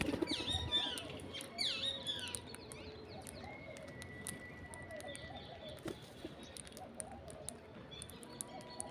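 Parrots feeding: several short, falling chirping calls in the first two seconds or so, then a steady scatter of small clicks and pecks.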